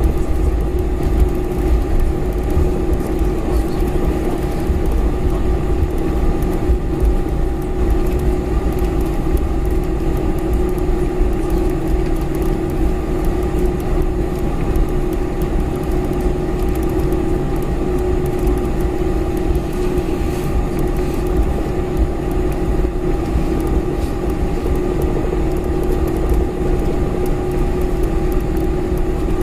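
Boeing 747-400 cabin noise: the jet engines running steadily under a deep rumble, with a few constant hums held throughout.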